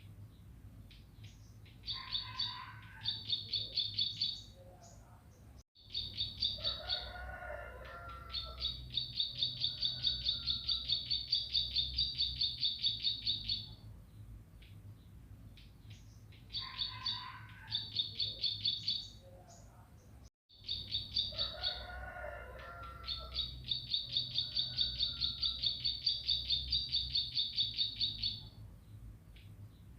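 Bar-winged prinia (ciblek) singing: long bursts of rapid, evenly repeated high chirps, about six a second, broken by short lower warbled phrases. The same song stretch repeats about every fifteen seconds over a faint low hum.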